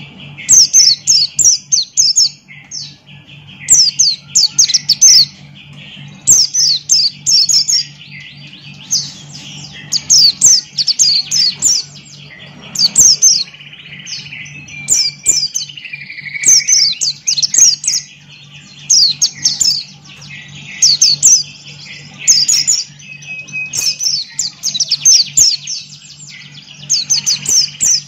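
Pleci buxtoni white-eye singing hard: bursts of quick, falling, high-pitched notes every second or two over a continuous lower twittering, with a steady low hum underneath.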